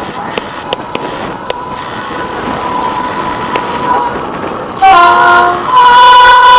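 An approaching train's rumble growing louder with scattered clicks. About five seconds in, the locomotive's air horn sounds very loudly: a short multi-tone blast, a brief break, then a long steady blast.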